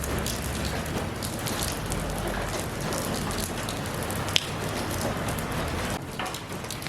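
Steady rain falling, a dense even hiss with many separate drops ticking on a hard surface close by. One sharp, louder tick stands out a little over four seconds in.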